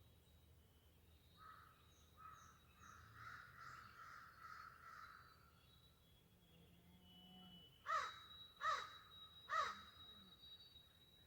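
A crow cawing three times in quick succession, harsh and loud, about two-thirds of a second apart, after some fainter bird calls. A thin, steady high tone runs underneath.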